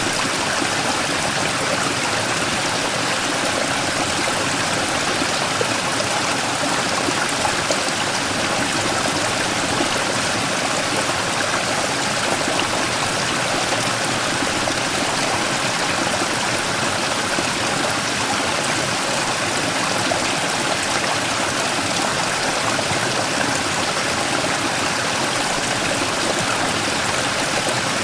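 Mountain stream rushing and splashing over a large rock, a steady, even water noise.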